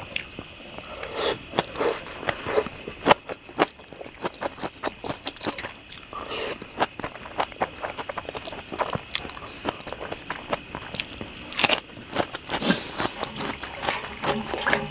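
Close-up eating sounds: continual wet chewing and mouth smacks in many short, irregular clicks. A faint steady high whine runs under them.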